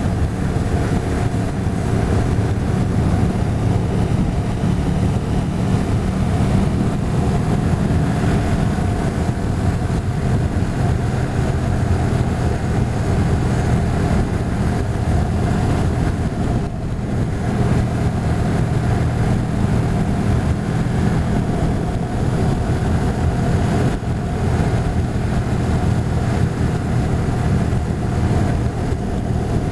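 Motorcycle engine running steadily while riding at a constant speed, with road and wind noise; the sound dips briefly just past the middle.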